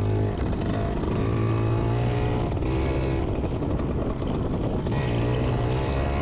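Yamaha PW80's small two-stroke single-cylinder engine revving as the dirt bike pulls away and rides on, its pitch climbing and dropping several times.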